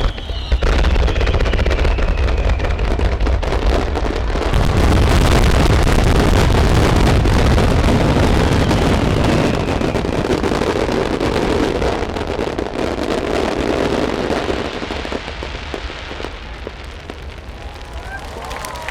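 Fireworks finale: a dense, unbroken barrage of shells bursting, with rapid crackling over heavy booms. It is loudest in the middle and thins out near the end.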